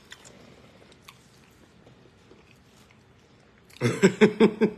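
A man chewing a mouthful of fried lobster sandwich, faint wet mouth sounds and small ticks. Near the end he breaks into a short run of loud, quick chuckling laughter.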